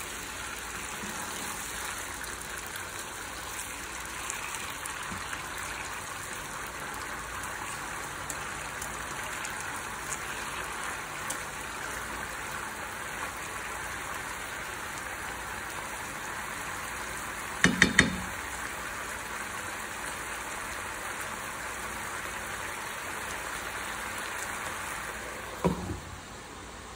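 Chicken leg quarters sizzling steadily in oil and juices in a nonstick frying pan. A little over halfway through there are three quick knocks against the pan. Near the end a glass lid knocks down onto the pan and the sizzle becomes quieter and muffled.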